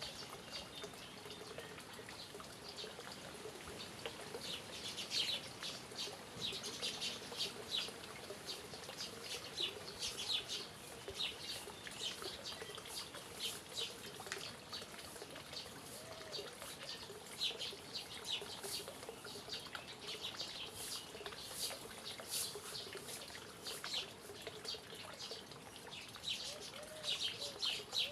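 Small birds chirping in quick, repeated calls over a steady trickle of running water.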